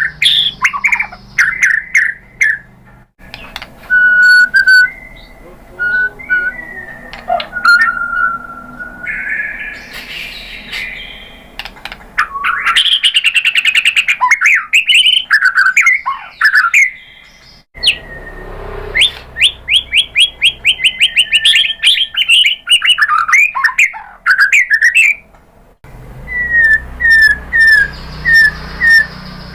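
White-rumped shama singing a varied song of loud whistled phrases and rapid runs of repeated notes, ending with a string of short, evenly spaced falling notes.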